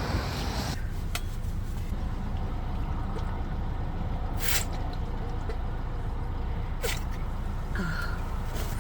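Steady low rumble of a car engine running, heard from inside the car, with four brief sharp clicks spaced a few seconds apart.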